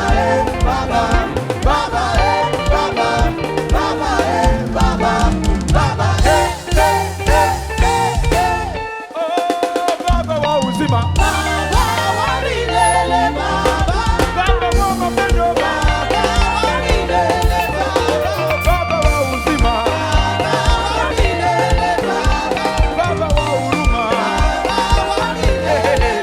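A live band playing an upbeat instrumental passage with drum kit and bass. The bass and drums drop out for about a second roughly nine seconds in, then come back in.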